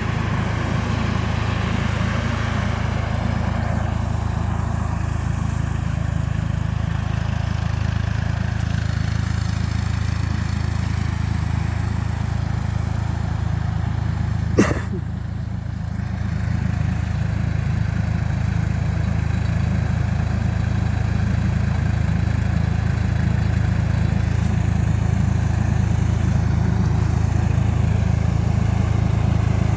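Hattat B3065 tractor's diesel engine running steadily under load while spraying, with a single sharp click about halfway through.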